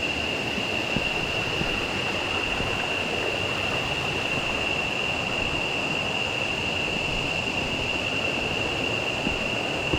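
Steady rush of river water with a constant high-pitched insect drone over it, and a couple of faint small knocks.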